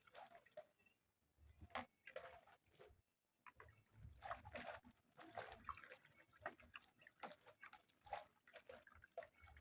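Faint, irregular splashing and dripping of water as peeled potatoes and bananas are washed by hand.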